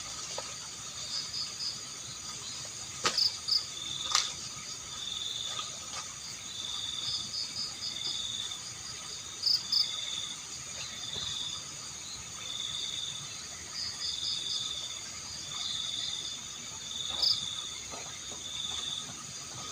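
Insects chirping steadily, crickets or katydids: one high note repeating about every half to three-quarters of a second, with quicker groups of three or four pulses slightly higher above it. A few sharp clicks stand out, two of them about three to four seconds in.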